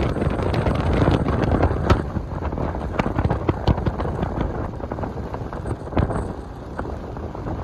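Heavy wind buffeting the microphone during a motorcycle ride, a dense low rumble with scattered sharp ticks.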